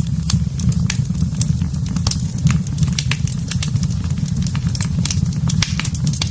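Wood fire in a fireplace crackling, with many sharp, irregular pops over a steady low rumble of burning.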